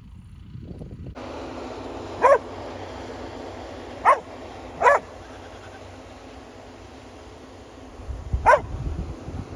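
A dog barking four times, short single barks spread over several seconds, over a steady rushing noise that sets in about a second in.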